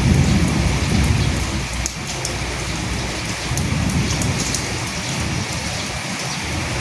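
Steady, heavy rain falling, a dense hiss with fine drop ticks, with a low rumble swelling in the first second or so and again around four seconds in.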